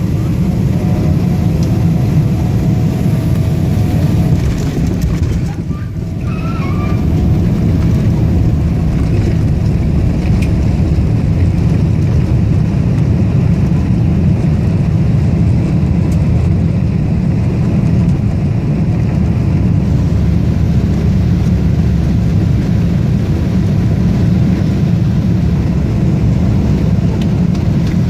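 Steady low cabin rumble of a Boeing 777-300ER, engine and airflow noise heard from inside the cabin during landing. There is a brief dip in level about six seconds in.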